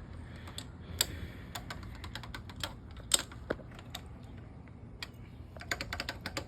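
Ratchet wrench and hand tools clicking in irregular single strokes, with a quick run of clicks near the end.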